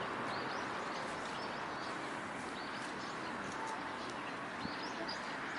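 Small birds chirping again and again over a steady outdoor hubbub.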